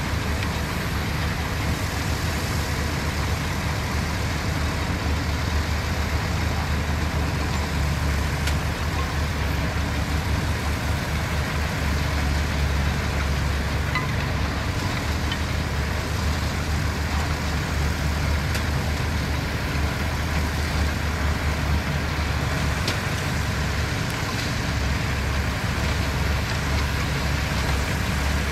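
Heavy construction machinery engines, bulldozers and dump trucks, running steadily with a constant low rumble.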